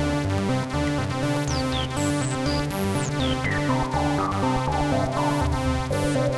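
Analogue Solutions Treadstone analogue monosynths playing a fast sequenced bass line, with a repeated high, zapping sound that falls sharply in pitch several times over the top.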